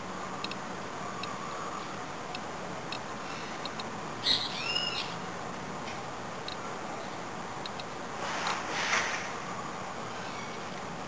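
A bird calls once, briefly, about four seconds in, over a steady background hiss. Faint light ticks are scattered through, and a short rushing noise comes about eight seconds in.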